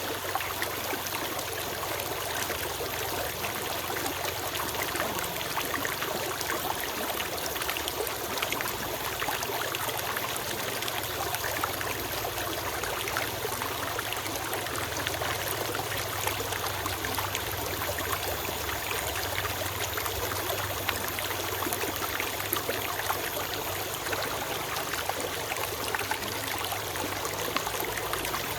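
Small forest stream flowing steadily, water trickling and bubbling over stones.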